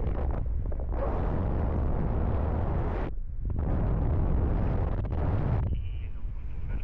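Wind buffeting the microphone in flight under a paraglider: a constant low rumble with two long gusts of hiss, separated by a short lull about three seconds in.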